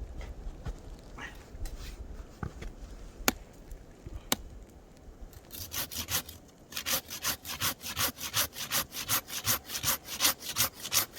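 Samurai straight pruning saw cutting wood by hand in quick, even strokes, about four a second, starting about halfway in. Before that there are a few scattered knocks.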